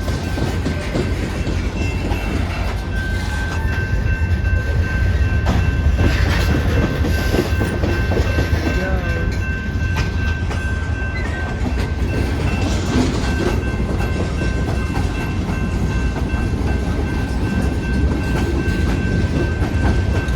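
Cars of a slow-moving Marquette Rail freight train rolling past, a steady low rumble with occasional knocks of wheels over the rail joints. A thin, steady high tone runs over it from about three seconds in.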